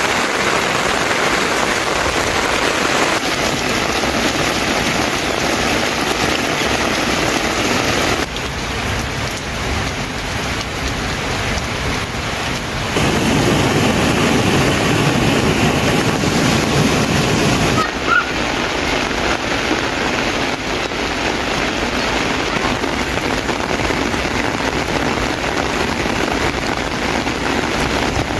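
Steady rain falling, a dense hiss whose character shifts abruptly every few seconds, heaviest and deepest in the middle stretch. A single short sharp sound stands out about two-thirds of the way in.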